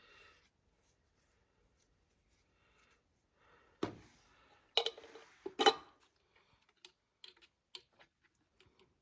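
Work noise from handling pipe and tools: a few sharp knocks and clatters from about four to six seconds in, then scattered light clicks.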